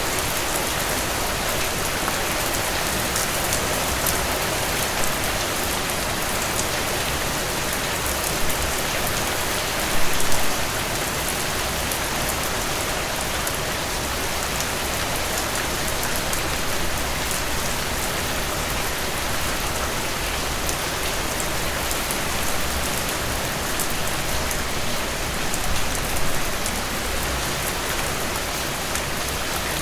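Heavy rain falling in a dense, steady hiss, with fine ticks of individual drops. It grows briefly louder about ten seconds in, and again for a moment near the end.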